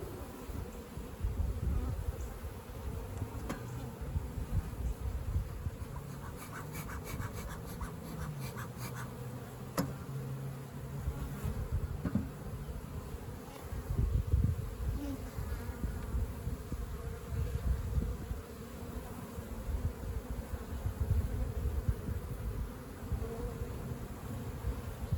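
Honeybees buzzing in a steady hum around an open swarm trap and hive, with a few light clicks about seven to ten seconds in.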